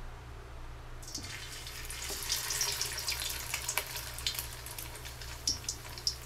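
Breaded chicken fillet frying in hot oil in a wok: a dense sizzle with scattered sharp pops that starts suddenly about a second in, as the fillet goes into the oil.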